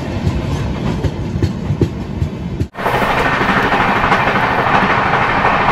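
Shiv Ganga Express running at speed, heard from aboard: wheels clattering over the rail joints. Partway through, an edit cuts to a louder, steady rushing of the moving train.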